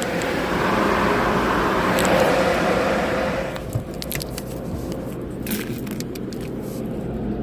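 Heard from inside a car sitting in neutral in a car wash line: a steady rushing noise that cuts off about three and a half seconds in, leaving a low engine hum and a few light clicks.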